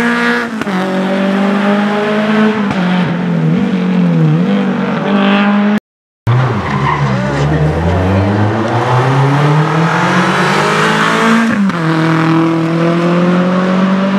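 Rally car engine at high revs, dipping and rising through gear changes, with some tyre squeal. The sound cuts out briefly about six seconds in. It comes back with the engine pulling hard from low revs and climbing in pitch, then settles after an upshift near the end.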